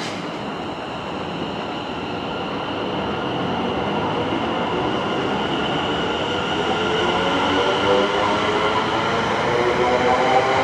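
Greater Anglia passenger train accelerating away from the platform, its running noise growing louder with a whine that rises in pitch as it gathers speed.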